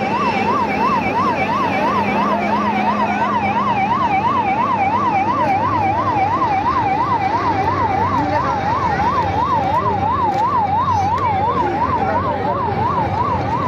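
Emergency vehicle's electronic siren sounding a fast warble, its pitch sweeping up and down about three times a second, over steady background noise.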